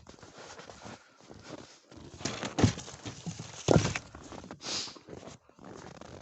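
Wooden firewood rounds knocking together as they are handled and loaded, with two heavy thuds about a second apart, followed by a short hissing scrape. Quieter crunching and rustling, typical of steps in snow, runs between them.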